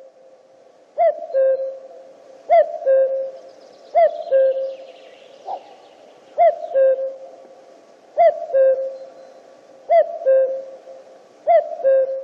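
Common cuckoo (Cuculus canorus) calling its two-note cuck-oo, the second note lower. It repeats the call seven times at intervals of about one and a half to two seconds.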